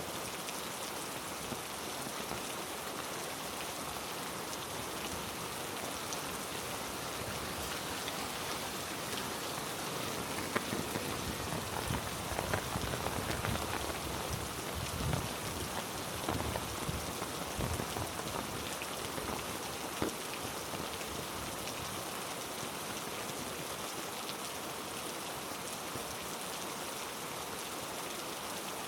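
Heavy rain falling steadily, a dense, even hiss, with a slightly louder, lumpier stretch in the middle that holds a few soft thuds.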